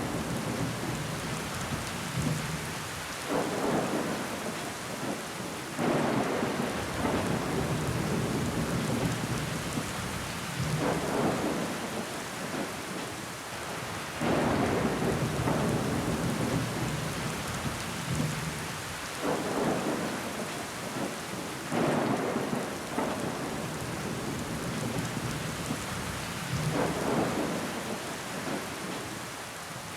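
Rain beating on window glass with water running down the pane, a steady hiss with a sudden heavier swell every few seconds.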